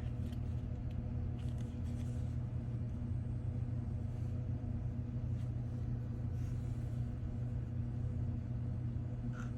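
A steady low hum from running equipment, with a few faint ticks and scrapes about a second and a half in and near the end.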